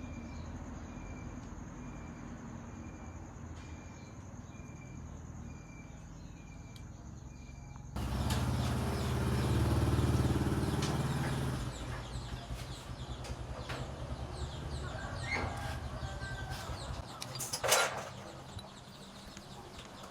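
Metal lathe running with a steady low motor hum and a high whine. About eight seconds in, the sound changes abruptly to louder machine noise, with scattered metallic clicks and a short sharp scrape near the end.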